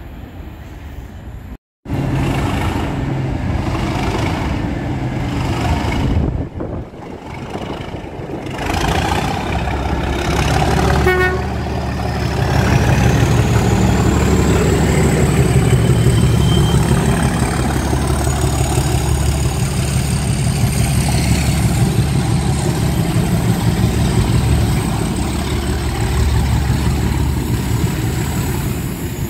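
Train engine running with a steady low rumble, a brief horn toot about eleven seconds in, then a high whine that rises and holds steady.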